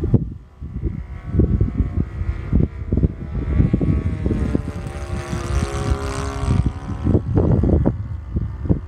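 Cessna 182's piston engine and propeller droning steadily, with wind buffeting the microphone in heavy low gusts. The engine tone swells louder through the middle and then eases back.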